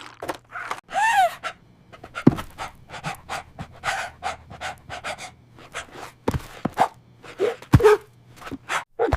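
A dog panting rapidly in quick breathy strokes, with a short whine rising and falling about a second in and a few dull thumps.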